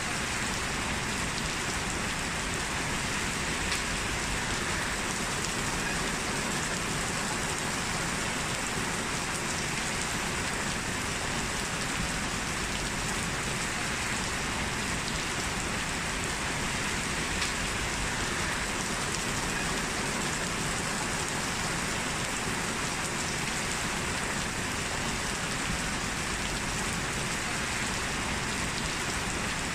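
Steady rainfall, an even hiss of falling drops that holds constant throughout.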